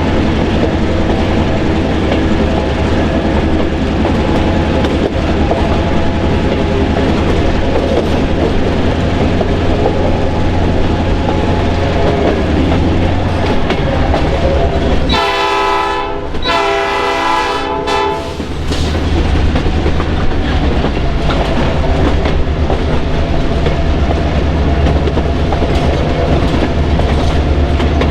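Diesel-hauled train running with a steady engine drone. About halfway through, the locomotive horn sounds two blasts, a short one and then a longer one.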